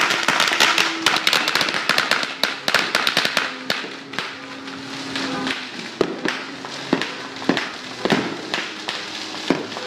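Fireworks going off in quick succession. For the first few seconds there is a dense, rapid crackle of many small reports, then separate sharp bangs come about once a second.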